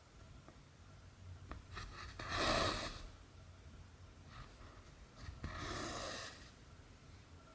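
Cotton thread drawn through cross-stitch fabric twice, each pull a hiss of under a second, with small clicks of the needle just before.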